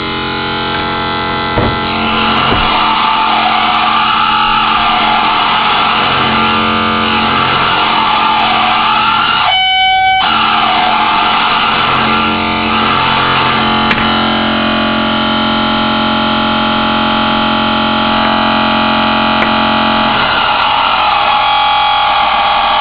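DIY modular synthesizer patch droning and shifting in timbre: a ring modulator's sine output run through a wave folder, a phase shifter and a filter swept by an LFO, giving a dense, evil-sounding tone full of overtones. About ten seconds in it briefly thins to a few clean tones, and later it settles into a steadier held drone for several seconds.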